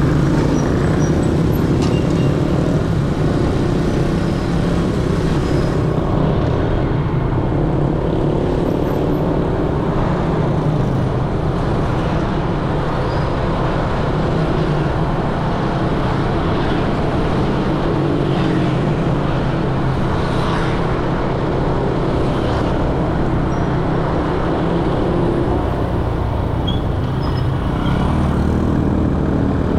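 Motorcycle engine running steadily amid the steady noise of dense street traffic.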